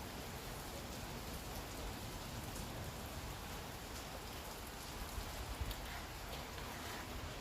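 Steady rain with scattered individual drops ticking on surfaces, and a few soft low thumps a little past the middle.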